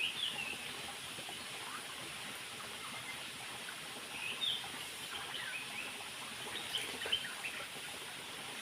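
Short scattered bird chirps over a steady rush of water from a nearby waterfall.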